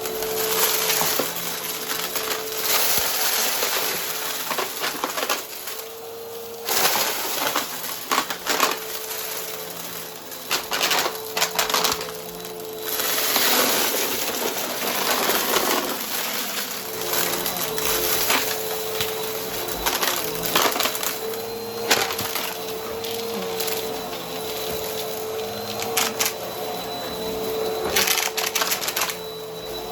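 Vacuum cleaner running with its brushroll on, its motor holding a steady whine while it sucks up crunchy debris in bursts of crackling and sharp snaps.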